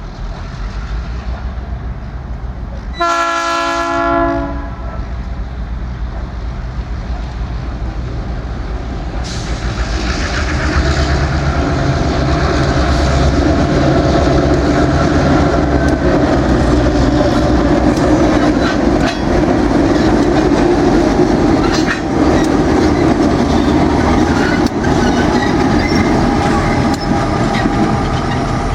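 Diesel locomotives running light: a horn sounds once, briefly, near the start. Then the heavy engine rumble builds as the locomotives draw close and pass, with wheels clicking over the rail joints.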